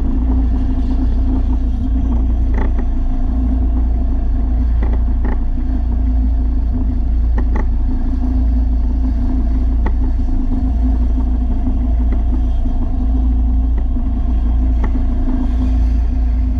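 A machine motor running steadily with a low, unchanging hum and a few faint light clicks.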